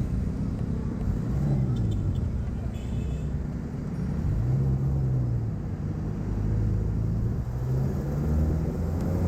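Road ride on a Yamaha Mio Gear S scooter: steady low engine and road rumble with wind noise, the engine pitch rising and falling a couple of times.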